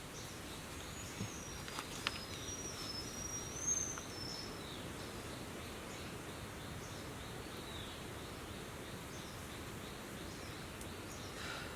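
Steady outdoor wind hiss, with a bird's run of short high chirping notes in the first few seconds and a few short falling whistled calls later.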